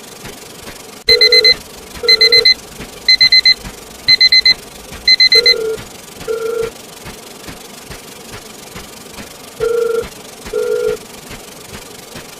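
Electronic beeping: about a second in, a click, then five groups of four quick high beeps about once a second, in the pattern of a digital alarm clock. Short lower tones come at uneven intervals, over a steady background hiss.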